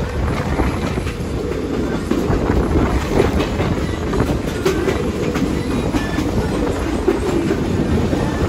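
Passenger train cars rolling along the track, heard from an open-air car: a steady rumble of wheels on rails with scattered clicks.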